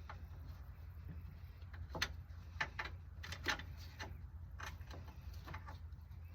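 A string of irregular sharp clicks and clanks from hand tools and metal parts being handled during suspension work, the loudest about two seconds in and again around three and a half seconds, over a low steady hum.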